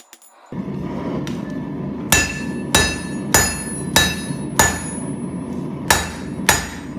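A 4-pound hammer striking hot 1084 steel on a railroad-track anvil, seven ringing blows in an uneven rhythm from about two seconds in, as the knife's tip is drawn out. A steady low roar, the propane forge, runs underneath.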